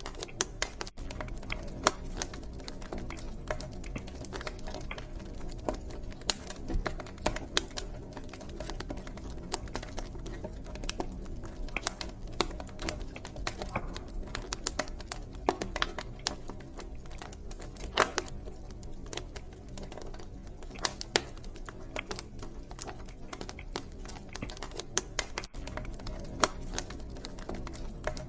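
Wood fire crackling in a fireplace: irregular sharp pops and snaps, some much louder than others, over a steady low rumble of the flames.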